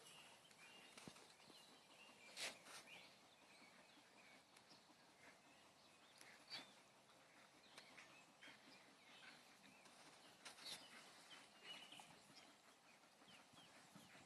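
Near silence: faint outdoor ambience with a few scattered light clicks and faint high chirps.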